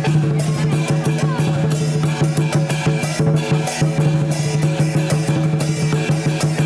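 Chinese festival percussion band beating a fast, steady rhythm on drum, gongs and cymbals, with the gongs ringing on under the cymbal crashes.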